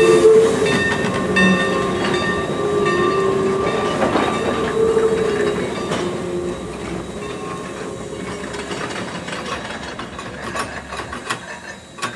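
Train hauled by a 1929 Baldwin 2-8-2 tank steam locomotive rolling past and away, growing steadily fainter. Steady ringing tones are heard over the first half and then fade out. Wheels click over the rail joints, most plainly near the end.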